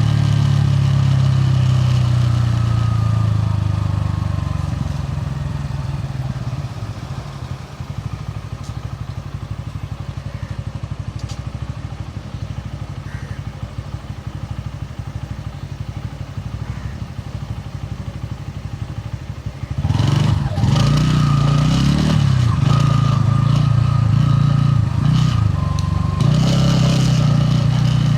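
Bajaj Pulsar N160's single-cylinder engine and exhaust on the move. It runs strongly at first, drops to a quieter steady beat for a stretch, then pulls hard again from about twenty seconds in, its pitch rising and falling as the throttle opens.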